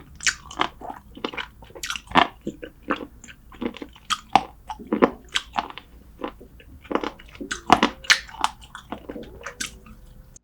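Close-miked mukbang eating sounds: a person chewing and biting spicy braised seafood and short ribs, with irregular wet smacks and crunches several times a second.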